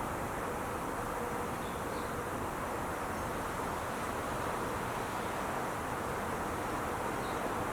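Steady wash of distant freeway traffic noise from Interstate 5, even and unbroken.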